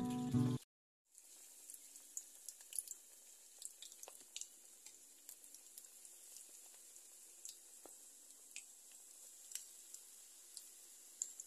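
Coated banana pieces deep-frying in hot oil in a wok: a steady sizzle with scattered pops and crackles. Music cuts off abruptly in the first second, just before the sizzle comes in.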